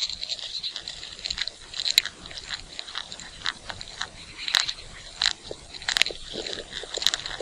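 An animal chewing and eating: irregular crisp crunches, several a second, with a few sharper snaps.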